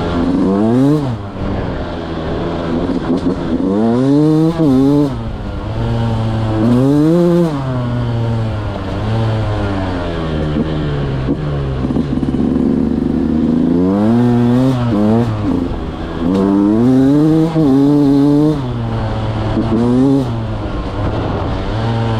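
Beta 200 two-stroke single-cylinder engine revving up and dropping back to a steady idle, about six times in a row, with short idling stretches between the rev-ups.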